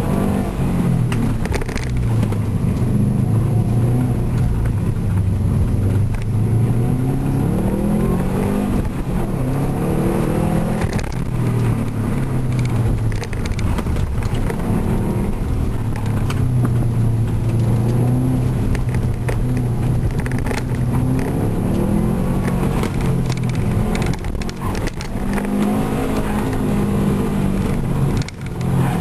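Subaru WRX's turbocharged flat-four engine under hard driving in an autocross run, its pitch rising and falling again and again as the driver accelerates and lifts between corners, with a brief drop in level near the end.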